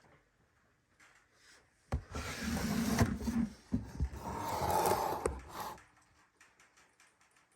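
A snake enclosure being opened: a knock about two seconds in, then about four seconds of sliding and scraping with a few more knocks, as a drawer-style tub or enclosure door is moved.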